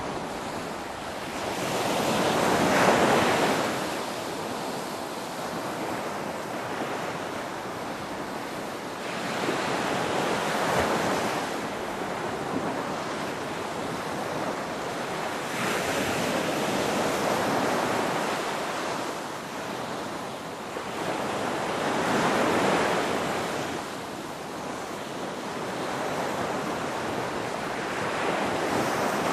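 Ocean waves breaking and washing in, about five swells in half a minute, one every five to seven seconds. The loudest swell comes about three seconds in.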